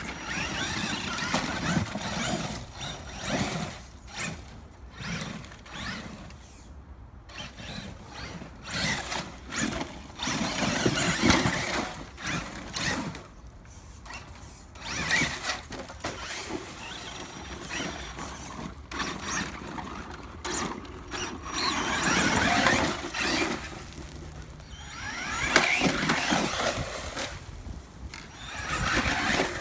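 Losi LST XXL2-E electric RC monster truck running on 6S: its electric motor and drivetrain whine in repeated surges as the throttle is pulsed, rising in pitch near the end, with tyres churning the dirt.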